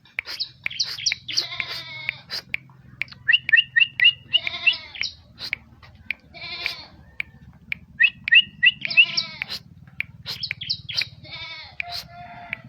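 Bar-winged prinia (ciblek) calling: a string of sharp chirps, quick paired whistled notes and repeated buzzy, nasal notes about half a second long.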